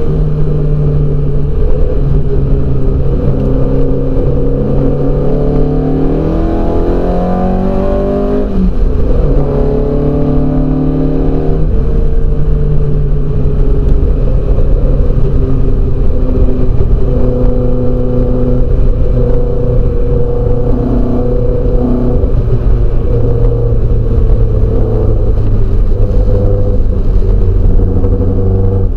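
TVR Vixen race car's engine heard from on board under hard acceleration. The revs climb for several seconds, drop sharply at a gear change about eight and a half seconds in, pull up again, then hold high and fairly steady over a continuous low rumble.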